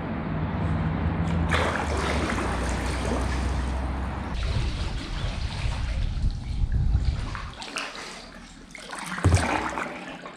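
Water splashing and trickling around a kayak on the loch, with a steady low rumble of wind on the microphone through the first few seconds and one sharper splash about nine seconds in.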